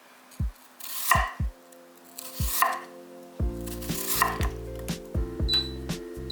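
Kitchen knife cutting through raw potatoes onto a cutting board, sharp chops about every second and a half. Background music with a deep beat plays under it, and sustained chords come in about halfway.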